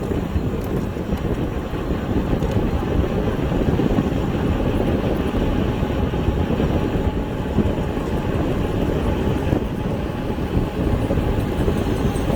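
Steady wind noise on the microphone mixed with tyre and road noise from a moving electric bike, a constant low rush without pauses.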